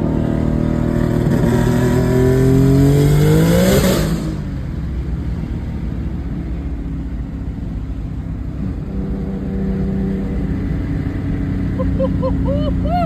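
Car engine accelerating hard, rising in pitch for about four seconds, then easing off to a lower, steady drone.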